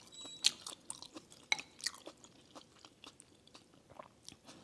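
Close-up eating sounds: a person chewing instant crab noodle soup, with soft, irregular mouth clicks and wet crackles.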